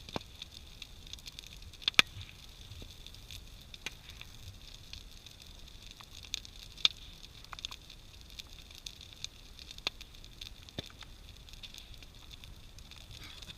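Large wood-pile bonfire burning, with irregular sharp crackles and pops over a faint steady hiss; the loudest pop comes about two seconds in.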